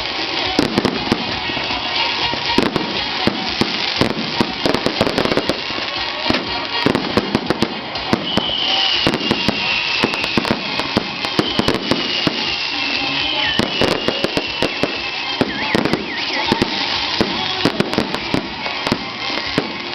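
A long string of firecrackers going off in rapid, irregular succession, crackling and banging without a break. A thin high whistle, falling slightly, sounds over them from about nine to fifteen seconds in.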